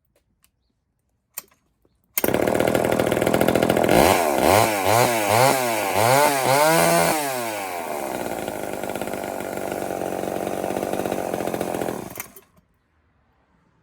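Poulan 245/306 two-stroke chainsaw, its ignition points freshly adjusted, starting up about two seconds in. It revs up and down in quick blips about twice a second, settles to a steady run, then stops near the end.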